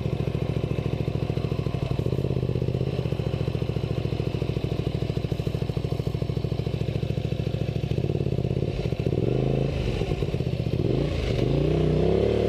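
Honda Spada 250 road motorcycle's V-twin engine running at steady low revs while the bike is ridden off road. From about eight seconds in, the revs rise and fall several times.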